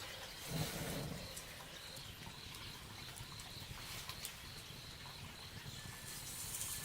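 Quiet outdoor ambience: a faint steady high buzz with scattered small clicks, and a soft low rustle or thump about half a second in.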